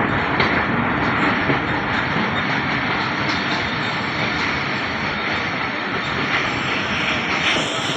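A train moving along the track, a steady noise of wheels running on the rails.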